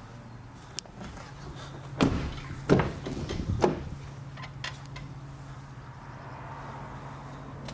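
Land Rover doors being opened and shut: a click, then three heavy knocks in quick succession and a few lighter clicks, over a steady low hum.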